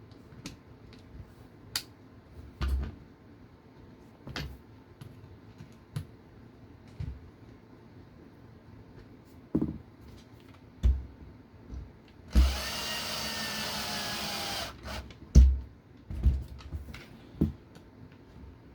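Scattered clicks and knocks of small parts and tools being handled, and a little past halfway about two seconds of a small electric screwdriver running, driving a screw into the RC car chassis. A few more knocks follow.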